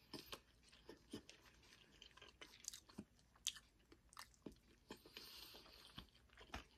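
Faint chewing of a mouthful of rice, with scattered small mouth clicks and smacks and a soft hiss about five seconds in.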